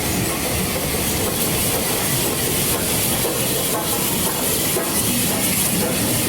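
Train at a railway station platform: a steady hiss with a few faint clicks.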